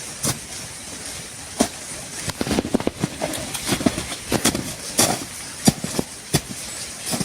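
Irregular sharp cracks and knocks, several a second at times, growing busier after about two seconds, over a steady hiss.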